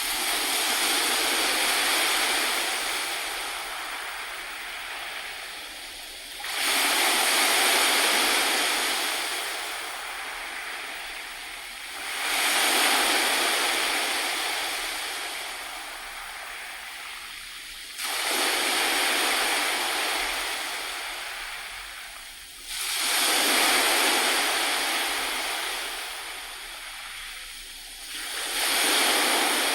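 Sea waves breaking on a shore: each wave surges in suddenly and then slowly washes back, about every six seconds, six times.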